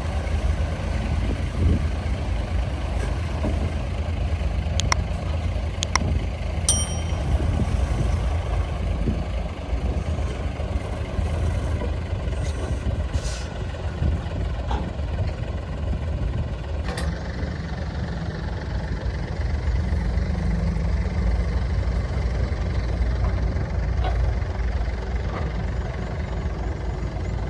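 Heavy diesel earthmoving machinery running steadily with a deep drone, with a few sharp knocks scattered through it and one short high beep about seven seconds in.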